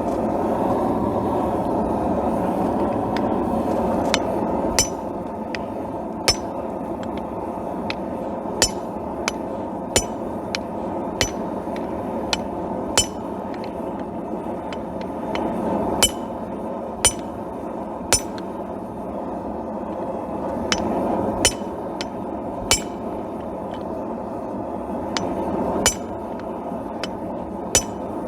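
Hand hammer striking hot steel on an anvil while forging the blade of a knife: about fifteen separate blows at irregular spacing, each with a short metallic ring. A steady rushing noise runs underneath.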